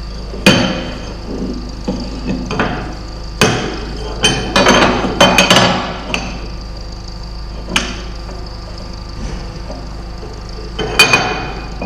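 Hammer striking steel brackets, irregular blows with a metallic ring, several in quick succession midway and one last pair near the end, as the brackets are knocked into line for welding.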